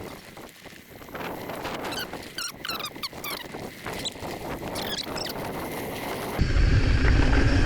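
Scattered short high-pitched squeaks and light clicks, then, about six seconds in, a sudden loud rumble of wind buffeting the camera microphone as the bike gets moving.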